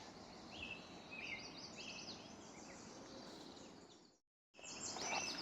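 Small birds chirping repeatedly over a faint, steady outdoor background hiss; the sound cuts out completely for a moment about four seconds in.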